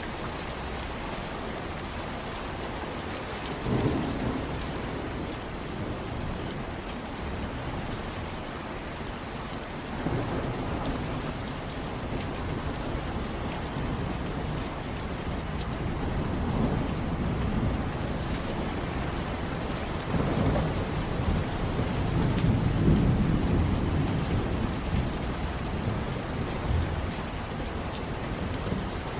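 Steady heavy rain with rolling thunder that rumbles up several times, loudest about two-thirds of the way through.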